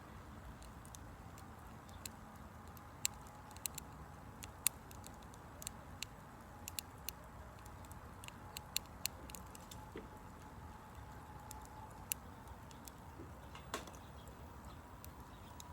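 Campfire of burning wood crackling: irregular sharp pops and snaps, a dozen or so, over a low steady hiss.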